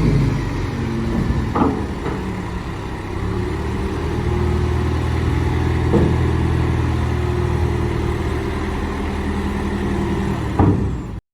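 Wagner (Epiroc) MT2000 20-tonne underground haul truck's diesel engine running steadily, its pitch shifting slightly partway through, with a few short clunks, the loudest near the end. The sound cuts off suddenly just before the end.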